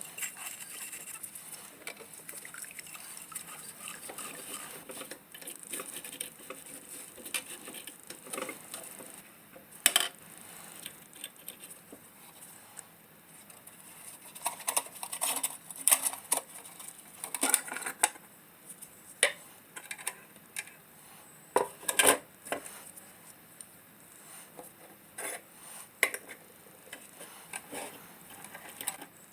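Irregular light metallic clinks and knocks of sheet-metal lantern parts being handled and taken apart, with a few sharper knocks in the second half.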